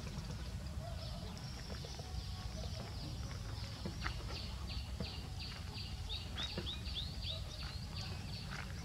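Birds chirping repeatedly over a steady low rumble, with a quick run of short descending chirps about six seconds in.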